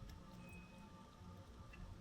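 Near silence: faint outdoor background with a few faint ticks and a thin, brief high tone.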